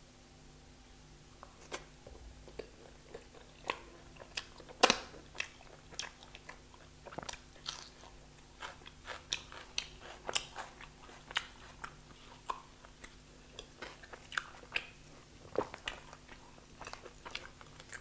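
Close-miked mukbang eating: biting and chewing a piece of flatbread, with many sharp, irregular mouth clicks and crunches. The loudest crunch comes about five seconds in.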